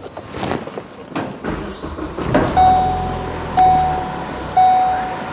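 A couple of knocks, then the 2012 Ford Focus's 2.0 litre four-cylinder engine starts about a second and a half in and settles to a steady run. From about halfway through, a dashboard warning chime beeps about once a second.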